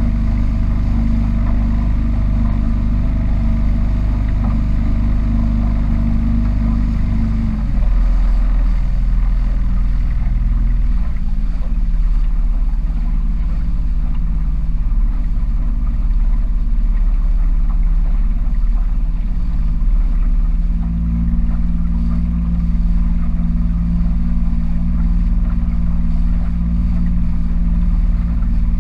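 Small powerboat's engine running under way, its note dropping about a quarter of the way in and picking up again about two-thirds of the way through.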